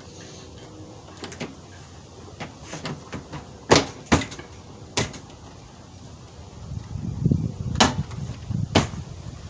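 About five sharp knocks and clicks on a vehicle door, with handling noise between them, as the interior door trim panel is pressed and tapped into place on the door.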